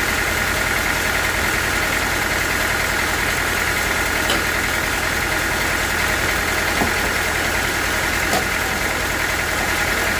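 Sawmill machinery running steadily, an even mechanical drone with a few faint clicks.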